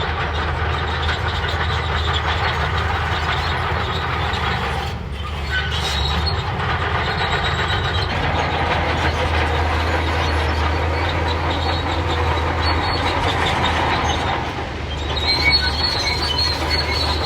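Bulldozer working in sand: a steady low diesel engine note under clanking and squealing from the steel crawler tracks, with high squeals coming in near the end.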